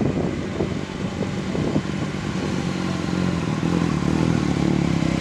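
Yamaha FZ-09's three-cylinder engine running steadily through an aftermarket M4 exhaust, with a few clattering knocks in the first couple of seconds.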